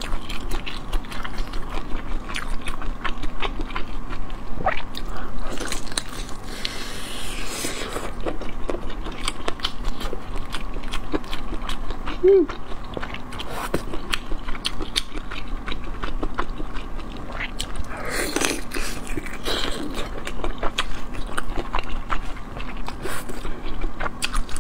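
Close-miked chewing and biting of a crispy fried roll: irregular crunches and wet mouth clicks throughout.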